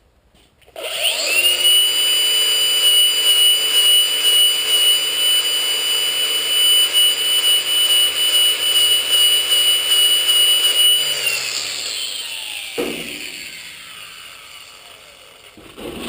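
Handheld power grinder spinning up to a steady high whine, running for about ten seconds, then coasting down with falling pitch over several seconds. There is a knock partway through the wind-down and another near the end.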